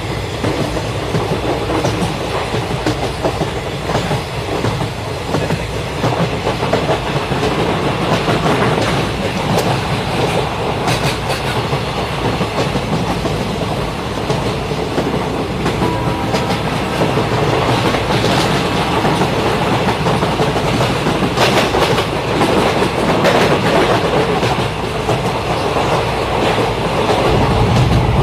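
Toy train running along its track with a continuous rattling clatter.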